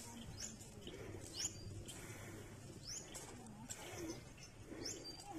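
Birds calling: a short, high, rising chirp repeated about once or twice a second, with fainter low calls underneath.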